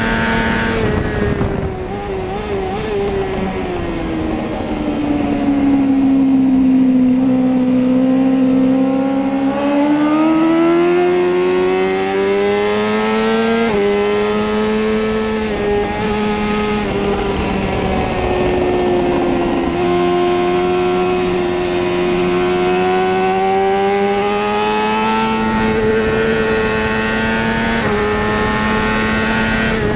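BMW S1000RR HP4's 999 cc inline-four engine at high revs. The revs fall over the first several seconds, then climb hard, with short drops in pitch as it is shifted up through the gears. Wind rushes past the onboard microphone.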